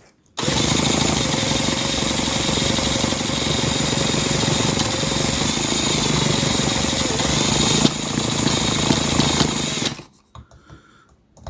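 Microcosm H75 Holt model engine being started: a fast, steady mechanical clatter that starts suddenly and cuts off about ten seconds in.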